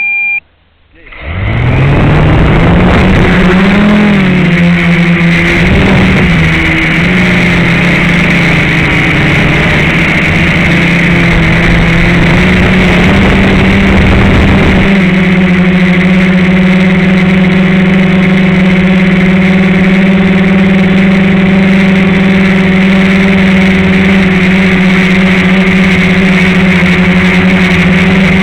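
FPV quadcopter's electric motors and propellers, close and loud as heard from the craft's onboard camera. A short beep at the very start, then the motors spin up about a second in with a rising whine. The pitch wavers with the throttle until about halfway, then holds steady.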